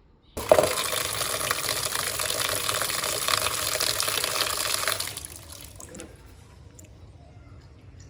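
Water running hard from a tap. It starts suddenly, runs steadily for about four and a half seconds and then shuts off, leaving a few faint clicks and knocks.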